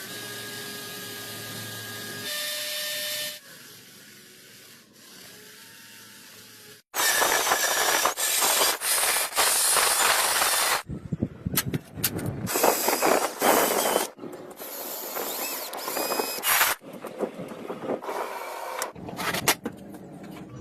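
Workshop tool sounds on wood and metal parts: a small power tool whirs steadily for about three seconds, then after a quieter pause there is a long stretch of loud rubbing or scraping in short, uneven strokes.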